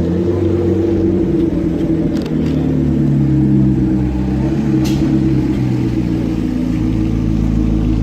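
A car engine running with a steady low drone, its pitch stepping slightly up and down a few times.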